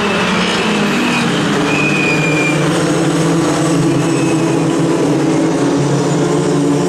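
A field of racing car engines running together on the starting grid, held at steady revs with small shifts in pitch as they wait for the start. A brief high whine comes in about two seconds in.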